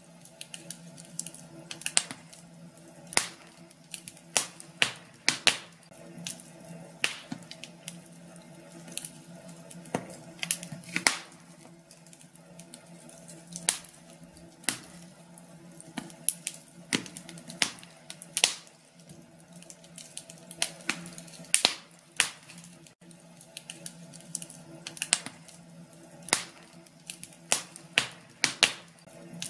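Wood fire in a fireplace crackling: sharp, irregular pops, one to three a second, over a faint steady hiss and a low hum.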